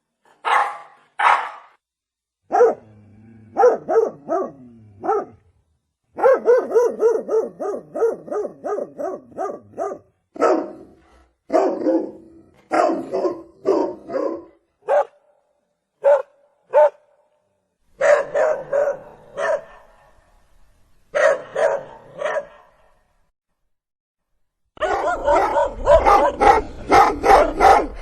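Domestic dog barking in runs of short, sharp barks with pauses between them, one run fast at about four barks a second. Near the end a louder, denser bout of barking starts over a low rumble.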